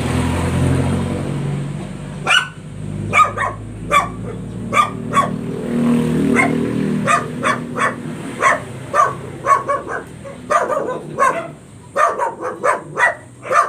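A dog barking repeatedly, one or two barks a second, the barks coming faster near the end. A vehicle engine rumbles under the first couple of seconds.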